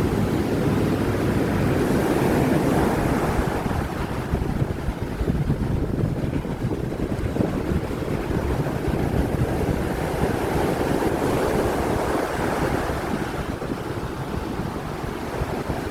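Heavy surf breaking and washing on a beach, rising and falling in swells, with strong wind buffeting the microphone.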